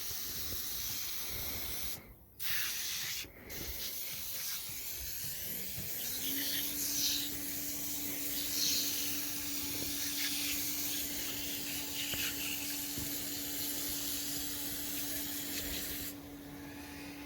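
Hissing spray of foaming cleaner being sprayed onto a gearbox, broken by two short pauses a couple of seconds in. About six seconds in a steady motor hum rises and holds, and the spray eases off near the end.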